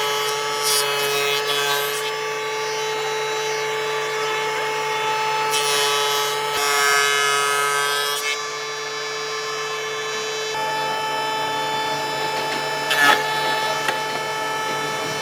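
Electric power tool motor running with a steady whine, working wood. A harsher scraping noise rises over it a few times as the tool bites into the wood.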